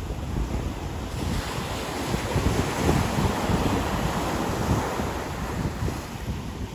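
Ocean surf breaking and washing up a beach: a wide hiss that swells about a second in and fades near the end, over a low rumble of wind on the microphone.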